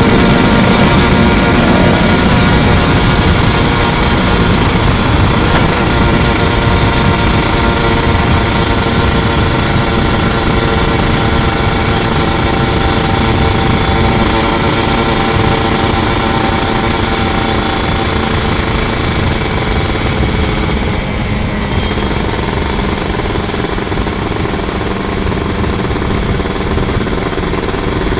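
Kawasaki 150 cc two-stroke motorcycle engine running steadily while riding, its pitch easing down slightly, with a brief drop-off about three-quarters of the way through.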